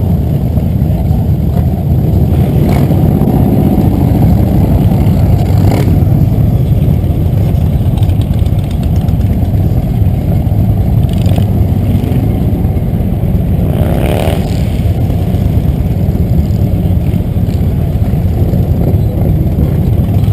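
Motorcycle engines running steadily in a group, with a couple of rising and falling revs, one about three seconds in and another near fourteen seconds.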